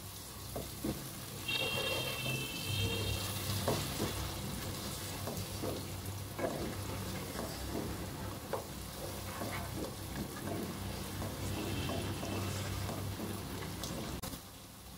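Beef pieces and onions sizzling in hot oil in a nonstick pot while being stirred with a plastic spatula, with scattered knocks and scrapes of the spatula against the pot. A brief high steady tone sounds about two seconds in.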